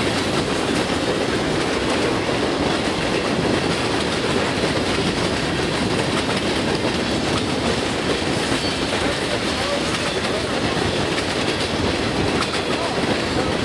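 Train cars rolling past steadily, their wheels clicking and clattering over the rails.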